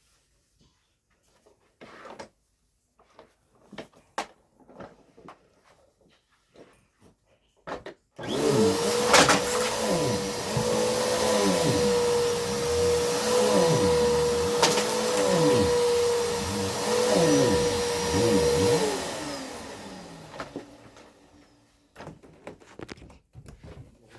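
Vacuum cleaner switched on about a third of the way in, running with a steady high whine while a lower hum dips and recovers every couple of seconds, with two sharp clicks along the way; it is switched off and the motor winds down near the end. Before it starts, only scattered light knocks and clicks.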